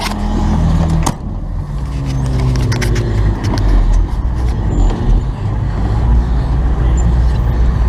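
Old Ford F-350 dump truck's engine running and pulling away, heard from inside the cab. Its pitch drops and breaks about a second in as the driver shifts gear, then settles into a steady drone with loose rattles in the cab.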